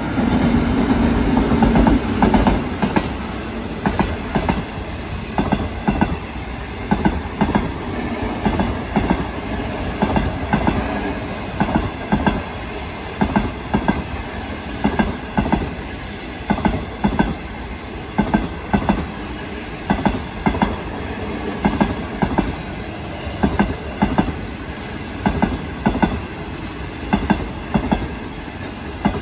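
A train rolling past, its wheels clacking over the rail joints in a steady repeating rhythm. A heavy rumble is loudest in the first two seconds, then a long run of clacks as the cars go by.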